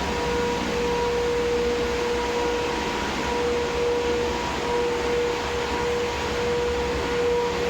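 Steady industrial machinery running in a thermal oil boiler plant: a constant rushing noise with an unchanging hum-like whine.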